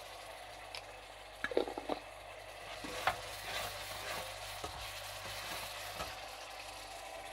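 Sliced onions sizzling and bubbling in oil and a little water in a nonstick wok, stirred with a metal slotted spatula. The spatula scrapes and taps against the pan, with a quick cluster of taps about one and a half seconds in and another near three seconds.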